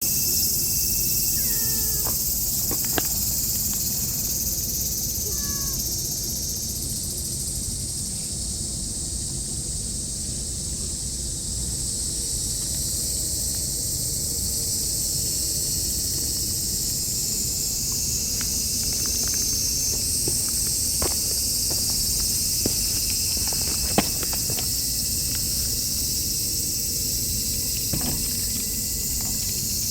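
A dense, steady, high-pitched insect chorus, with a few faint clicks and short chirps over it.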